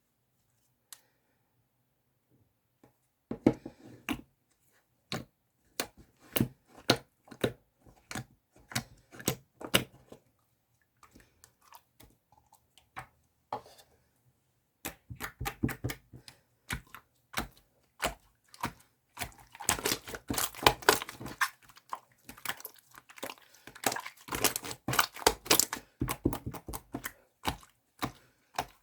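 Jiggly slime being squished and poked by hand, giving irregular sticky pops and clicks. They start about three seconds in, sparse at first, and come thick and fast in the second half.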